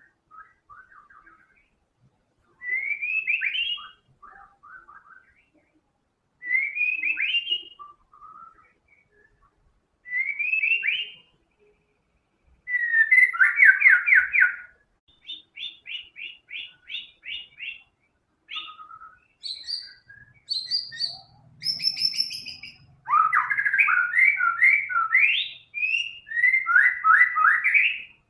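White-rumped shama singing in full voice: loud, quick phrases of rising whistled notes, the same phrase repeated every three to four seconds with short pauses between. In the second half the song breaks into a string of varied phrases, some of them higher-pitched.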